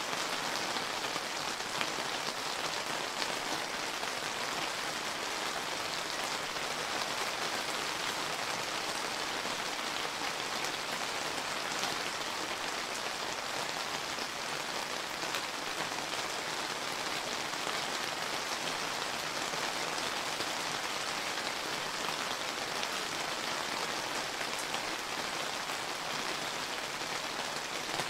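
Steady summer rain falling and pattering on surfaces, a dense even hiss scattered with the ticks of single drops.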